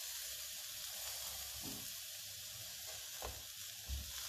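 Oiled eggplant slices sizzling steadily in a hot nonstick frying pan, with a few soft knocks as metal tongs set more slices down.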